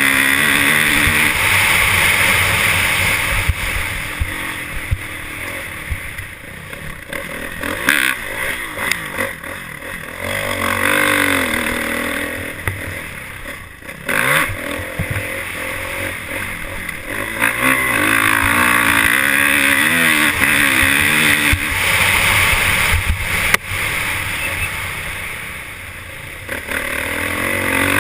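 Motorcycle engine revving up and down as it is ridden, under steady wind rush.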